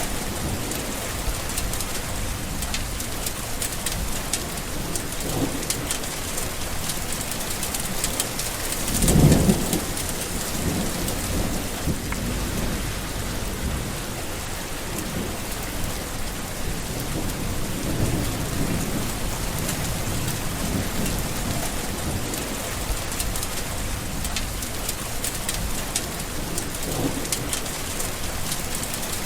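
Steady rain with many small drop ticks, and thunder rumbling under it. The loudest rumble comes about nine seconds in, with fainter ones several times later.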